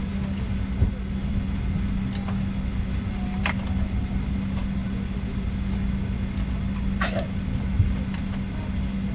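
Steady cabin noise inside a Boeing 737-800 on the ground before departure: a low rumble with a constant hum from the aircraft's air and power systems. There is a light knock about a second in and another near the end.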